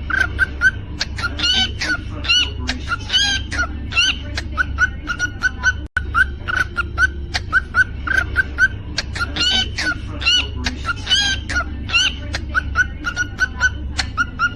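Cockatiel chirping in quick short notes, several a second, with longer rising whistled calls now and then, over a steady low hum; the sound cuts out for an instant about six seconds in.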